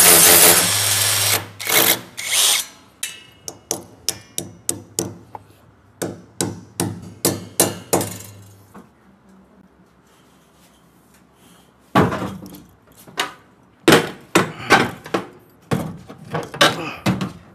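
A power drill runs loudly for about a second, then comes a series of sharp knocks and hammer blows on metal fittings, about two a second, stopping for a few seconds in the middle before another run of blows.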